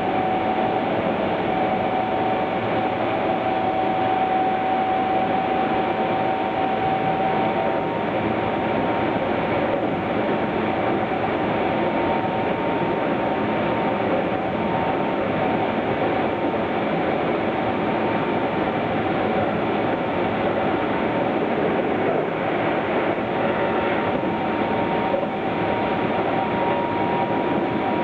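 Keihan 9000-series electric train heard from inside a passenger car while running: a steady rumble of wheels and running gear, with a faint steady electrical hum.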